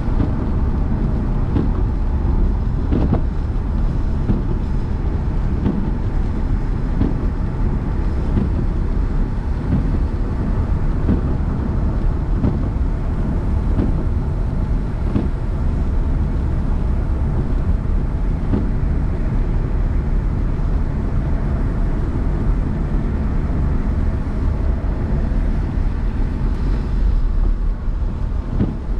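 A car driving, its engine and tyres giving a steady low rumble, with a few short knocks scattered through.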